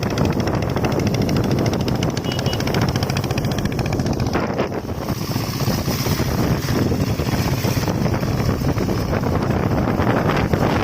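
Diesel engine of a homemade motorcycle running steadily with a rapid, even firing beat.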